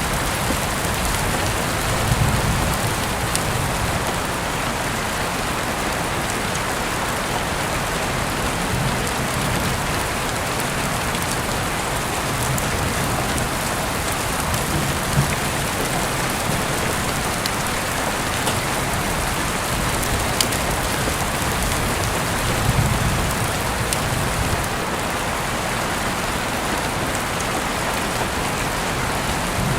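Steady rain falling, an even hiss with scattered sharp ticks and a few brief low swells.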